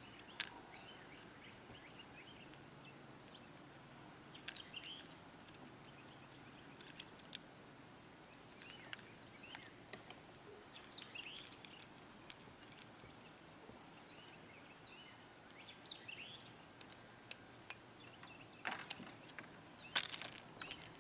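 Faint birds chirping in scattered short calls over a quiet outdoor background, with a few sharp clicks, the loudest near the end.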